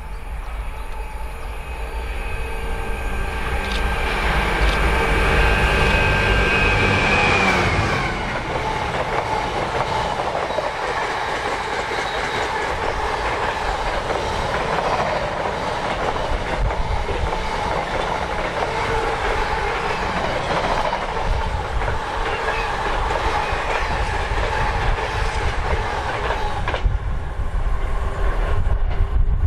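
A long train passes close by on the main line. Its note builds and drops in pitch as the front goes by about eight seconds in. The wheels then rumble and rattle along the track for about twenty seconds until the last vehicles pass near the end.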